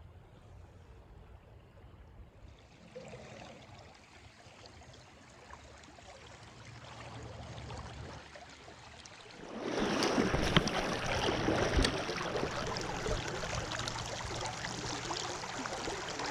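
River water flowing, faint at first, then much louder and splashier from about ten seconds in, with a few sharp splashes or knocks.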